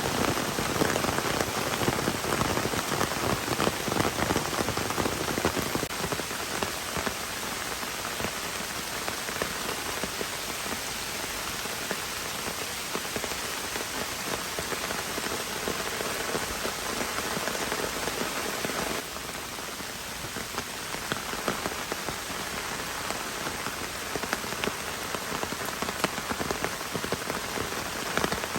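Heavy rain falling steadily, with a dense spread of individual drop hits on a surface. It drops a little in level about two-thirds of the way through.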